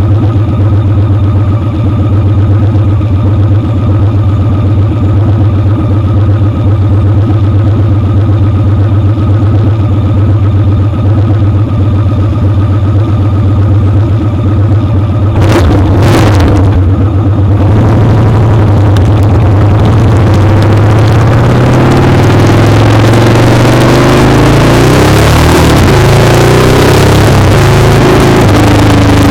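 Motorcycle engine running steadily at even revs, then, after a brief sharp noise just past halfway, accelerating with the engine note rising and shifting and a rush of wind noise building.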